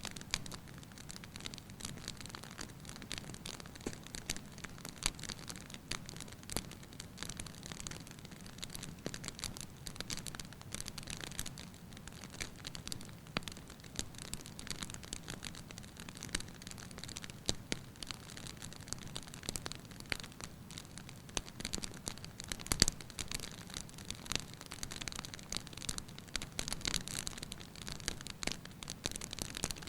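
Wood fire in a fireplace crackling: a dense, irregular run of small pops and snaps from the burning firewood over a soft low rumble of the flames, with one louder pop about three quarters through.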